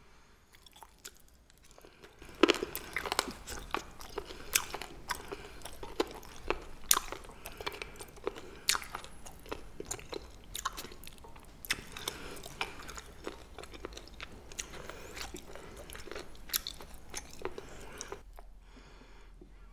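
Close-up crunchy chewing of a mouthful of rolled blanched Welsh onion (pa-ganghoe), many crisp crackling crunches starting about two seconds in and dying away near the end.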